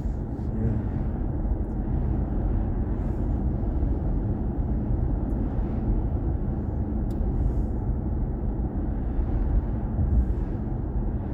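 Steady road and tyre noise of a BMW i4 M50 electric car driving at speed, a low, even rumble with no engine note.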